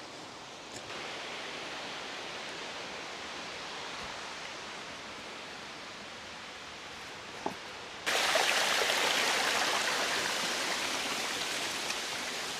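Rushing water of a waterfall and stream, a steady hiss. It gets suddenly louder and brighter about eight seconds in.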